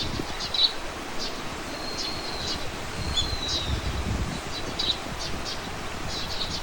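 Small birds calling outdoors: thin, high whistled notes, some gliding slightly in pitch, mixed with quick chirps, over a low rumble of wind that swells about three to four seconds in.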